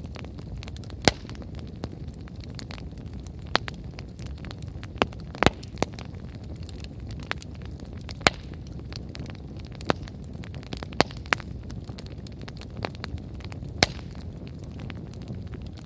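Firewood campfire burning, crackling with irregular sharp pops of the wood over a steady low noise of the flames.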